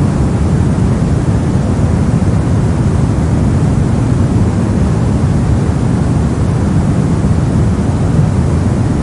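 Steady soft noise for sleep or focus: an even, deep rush with most of its weight in the low end and little hiss, unchanging throughout.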